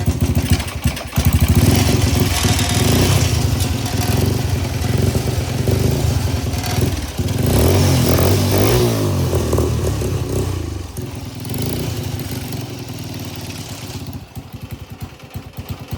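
Lawnmower engine running on the homemade ride-on, its speed rising and falling unevenly with a rev around the middle, with the drive chain and loose parts rattling. It runs rough, which the builder takes as needing a carb clean, and it gets quieter and more uneven near the end.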